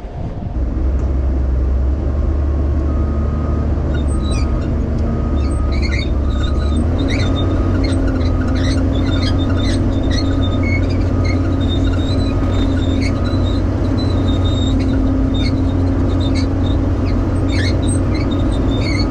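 Heavy diesel machinery, an excavator and a Cat D6N bulldozer, running under load as the stuck dozer is pulled out of the mud, a steady low drone whose note shifts about seven seconds in. A beeping alarm sounds in a regular series for a few seconds, and short metallic clanks and squeaks come through.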